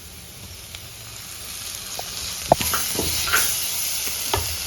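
Oil and spice masala sizzling in a frying pan as chopped tomatoes go in, the sizzle growing louder from about a second and a half in. A few sharp knocks against the pan come through the sizzle.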